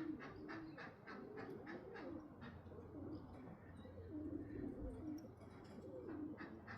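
Racing pigeons cooing, low and wavering, with a fast run of ticks, about four a second, over the first couple of seconds and again near the end.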